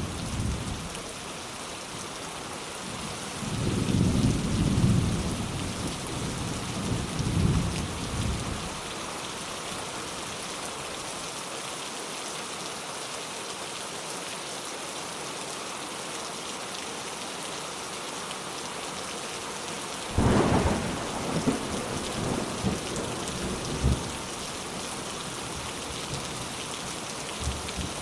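Steady rain with two rolls of thunder: a low rumble from about three and a half seconds in to about eight seconds, then a sharper crack about twenty seconds in that rumbles on for a few seconds.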